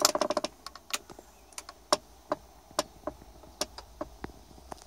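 A series of irregular sharp clicks and taps, a dozen or so, with a quick run of ticks at the start.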